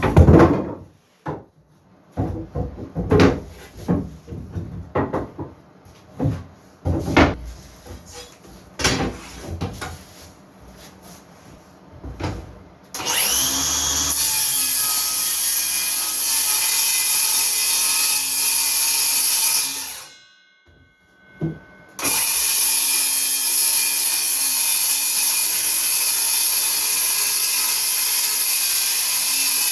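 Boards knocked and handled for several seconds, then a power saw cutting wood in two long runs of steady, hissy noise, with a pause of about two seconds between them.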